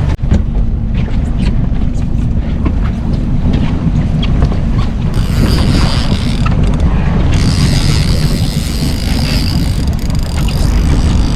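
Fishing boat's motor running steadily under way, a dense low rumble, with wind buffeting the microphone; a hiss of wind and water grows louder from about halfway through.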